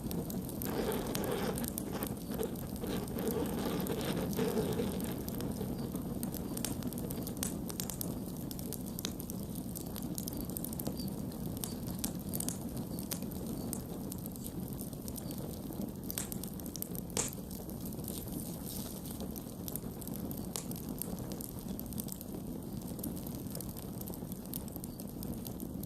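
Campfire burning with a steady low rush and scattered crackles and pops, one sharper pop about 17 seconds in.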